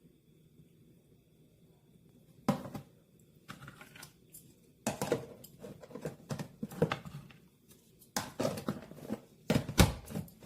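Irregular knocks, clicks and rustling from objects being handled in a small room, coming in clusters with short pauses between them.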